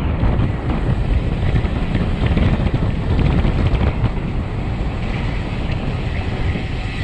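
Wind rushing and buffeting over the microphone of a road bike descending a mountain pass at speed, with road and tyre noise underneath.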